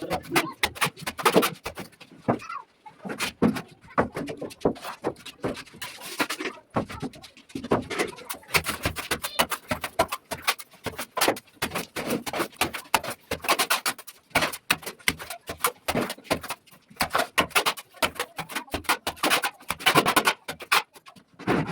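Rapid, irregular scraping and knocking of a mason's trowel working plaster.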